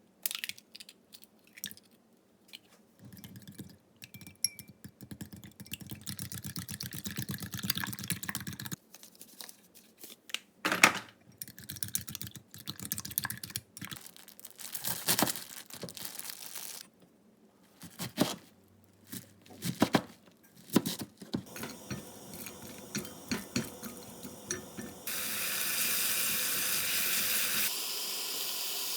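Kitchen prep sounds in short edited clips: scattered clicks and knocks with stretches of rustling noise, then a steady hiss that starts suddenly near the end.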